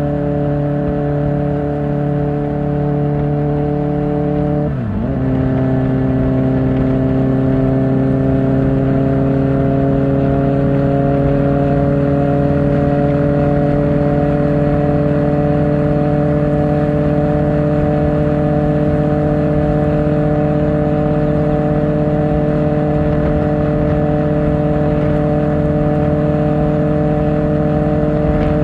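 Kawasaki Ninja ZX-4R inline-four with an Akrapovic exhaust under way: the engine note drops sharply with an upshift about five seconds in, then climbs slowly and steadily as the bike pulls in the higher gear.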